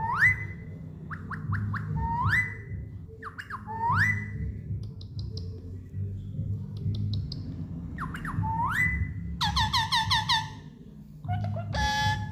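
Alexandrine parakeet giving repeated rising whistled calls, each climbing quickly and holding on a high note, about every two seconds, then a quick run of short chirps near the end.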